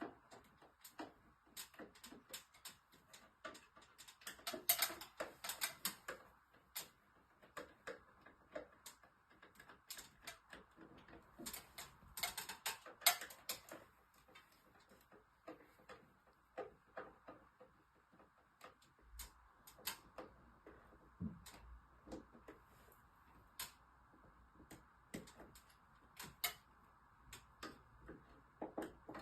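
Faint, irregular small clicks and taps of hand tools and plastic or metal parts being handled, as in work on an air conditioner's indoor unit, over a faint steady hiss.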